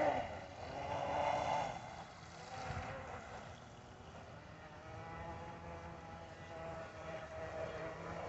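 Kyosho Jet Stream RC boat's battery-driven motor and water jet whining out on the pond. The whine drops away sharply at the start, a hiss follows over the first two seconds, and the whine stays faint while the boat runs far off, then builds again near the end.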